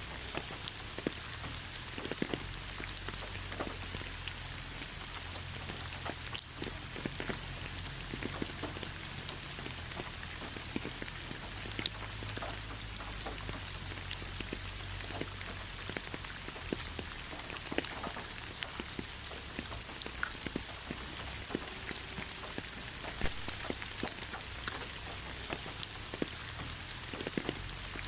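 Steady rainfall: an even hiss with many separate drops pattering on a surface, a few louder drop hits scattered through.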